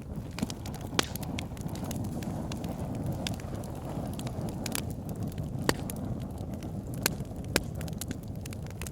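Campfire burning with a steady low rush of flame and a constant light crackle, broken by sharp pops from the burning wood about a second in and three more in the second half.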